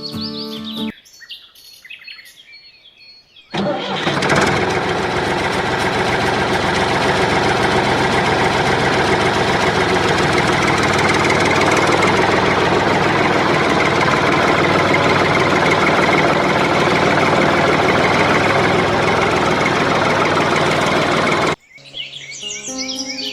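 A small motor running steadily and loudly; it starts suddenly about three and a half seconds in and cuts off suddenly near the end.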